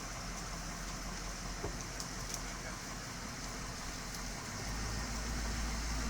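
Motor vehicle engine idling under a steady hiss, with a few faint clicks. Its low rumble grows louder about two-thirds of the way through.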